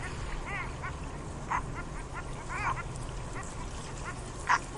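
Several short, high animal calls that rise and fall in pitch, with a sharper, louder call near the end.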